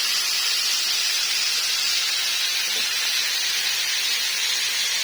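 Chicken pieces frying in a very hot, uncovered pan: a steady sizzle.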